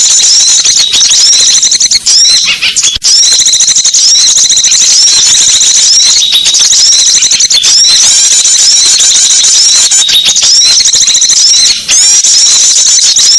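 Small-bird lure call recording: dense, loud, unbroken high-pitched chirping and twittering of many small birds, with a couple of brief gaps.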